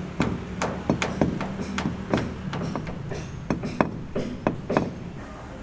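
Hammer blows at a building site, sharp irregular strikes a few per second over a steady low hum, stopping about five seconds in.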